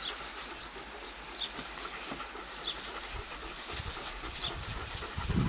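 A small bird chirps repeatedly, with short high falling notes about once a second over a steady hiss. Low thumps come in the second half, loudest near the end.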